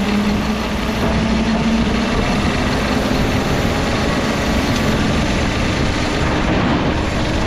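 Small diesel engine of a diesel-swapped Power Wheels ride-on truck running steadily, with a rough low rumble and a held engine note that rises slightly about a second in.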